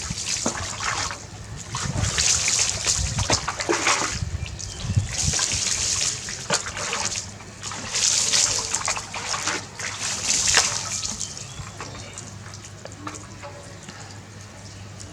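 Water splashing and pouring in repeated bursts while a baby monkey is being bathed. The splashing eases off to a faint trickle for the last few seconds.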